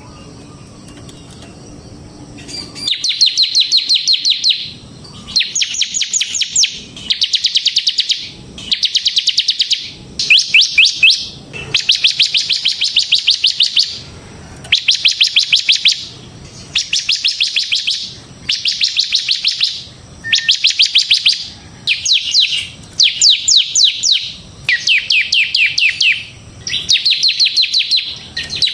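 Bar-winged prinia (ciblek) singing in a run of rapid, high trilled phrases, each a second or two long, with short pauses between them. The song starts about three seconds in.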